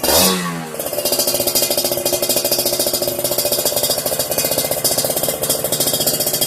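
Motorcycle engine running through a Creampie aftermarket exhaust. The throttle is blipped sharply at the start, then the engine is held at a steady raised speed with a loud, pulsing exhaust note.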